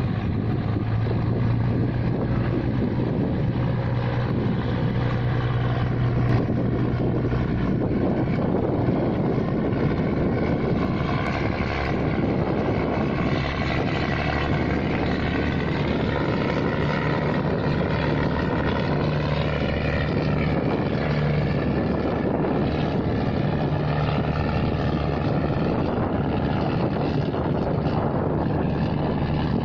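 Wooden motor ferry's engine running steadily with a low hum, its note rising slightly about halfway through.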